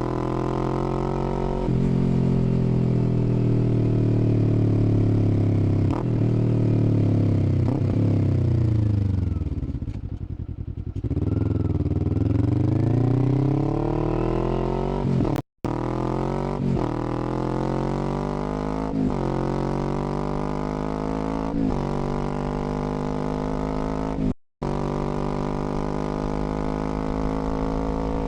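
Kawasaki Z400's 399 cc parallel-twin engine on the road. It slows down, the engine note falling to a low point about ten seconds in, then pulls away again through several gear changes. The sound cuts out briefly twice in the second half.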